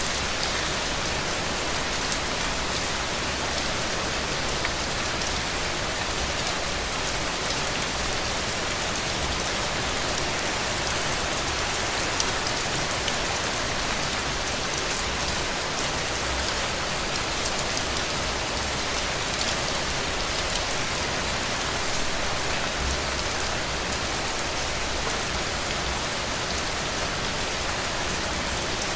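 Steady heavy rain, a dense even hiss of raindrops hitting a roof.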